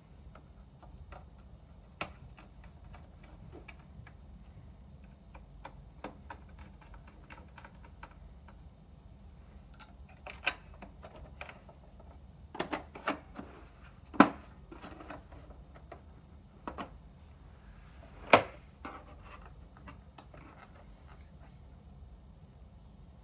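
Scattered clicks and light knocks of small parts and tools being handled during a projector repair, with two louder knocks, one just past the middle and one later on. A low steady hum runs underneath.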